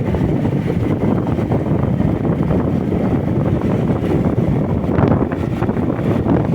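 Wind rushing over the microphone of a moving motorcycle, a steady low rumble with a brief louder swell about five seconds in.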